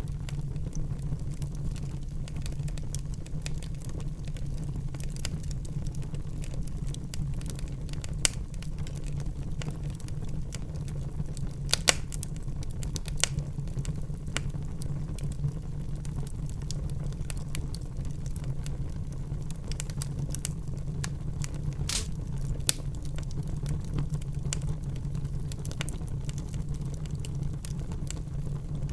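Wood fire burning in a fireplace: a steady low rumble of flames with scattered sharp crackles and pops, a few louder snaps about 8, 12, 13 and 22 seconds in.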